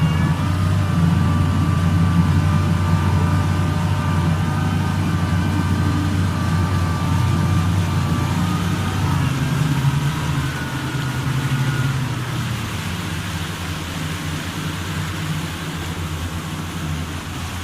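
An engine running steadily with a low drone and a thin high whine; the whine fades out about twelve seconds in and the drone gradually gets quieter.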